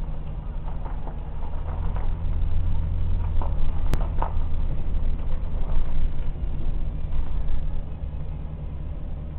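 Electric train running on the rails: a steady low rumble that swells through the middle and eases near the end, with one sharp click about four seconds in.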